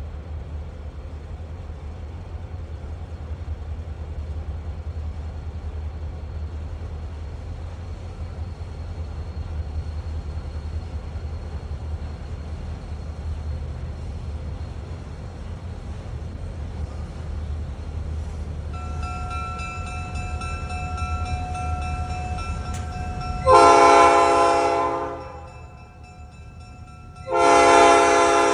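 Approaching diesel freight train: a low steady rumble, then its air horn sounding faintly at first and then two loud, long blasts near the end.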